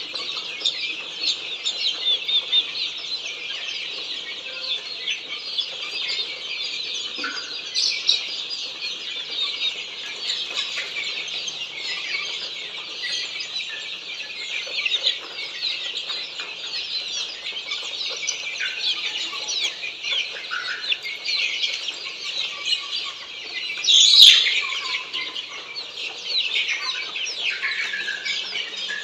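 A large brood of Australorp chicks peeping all together in a continuous dense chorus of short high chirps. One louder call stands out about three quarters of the way through.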